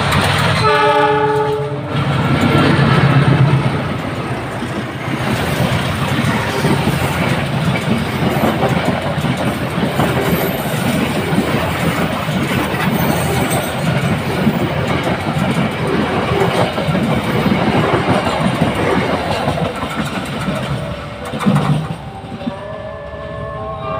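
A train sounds its horn briefly about a second in, then passes close by for about twenty seconds with a loud rumble and the clatter of wheels over the rail joints. As it fades, a steady pitched electronic warning tone starts near the end.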